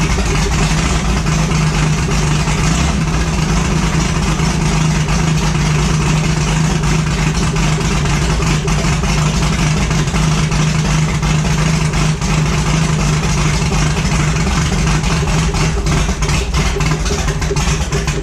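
Engine running steadily at one constant speed during the break-in run of a new camshaft and lifters.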